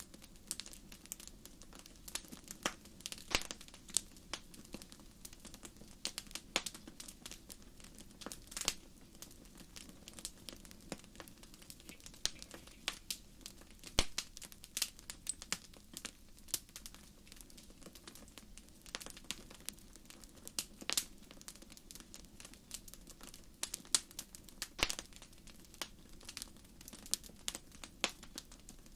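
Wood fire in a fireplace crackling, with irregular sharp pops over a soft steady hiss; a few louder pops stand out.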